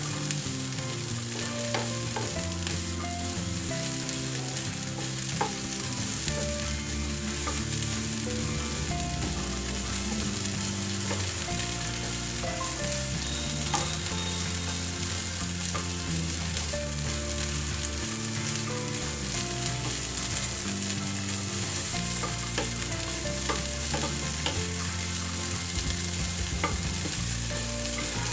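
Chopped green beans and carrots sizzling in hot oil in a non-stick pan while being stirred with a wooden spatula, with a few light knocks of the spatula: the vegetables are being sautéed for a couple of minutes before water is added.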